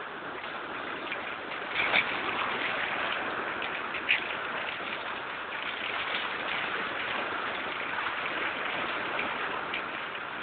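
Heavy storm rain pouring down, a steady rushing hiss, with two sharp knocks about two and four seconds in.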